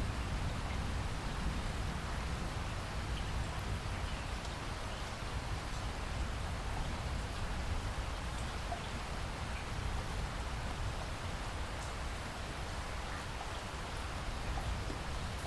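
Steady rain falling: a dense, even patter with a strong low rumble beneath it.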